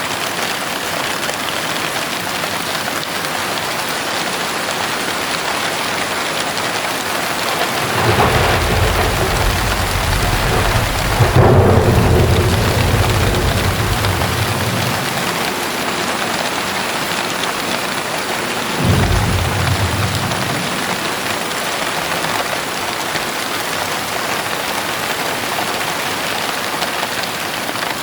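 Heavy rain hissing steadily while thunder rolls in about a third of the way through, swells to its loudest a few seconds later and rumbles away. A second, shorter thunder rumble follows about two-thirds of the way in.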